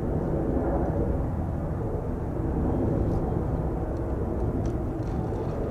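Jet airliner engines running, a steady rumble at the airport.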